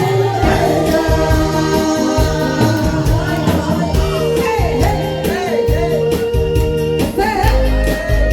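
Korean trot song sung with a wide vibrato over a band backing track with a steady bass beat.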